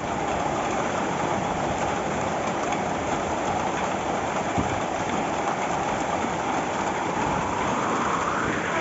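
Steady rushing of water, loud and even throughout, as in heavy flash flooding.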